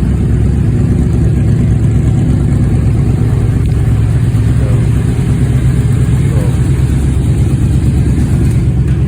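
Two Yamaha Royal Star Venture motorcycles' V4 engines idling together, one through Rinehart Racing aftermarket exhaust and one through Delkevic aftermarket pipes. A steady, deep exhaust rumble.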